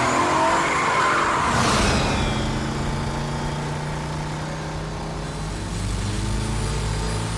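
A car and a truck at highway speed: a high screech in the first two seconds, a rushing burst about two seconds in, then a steady engine drone.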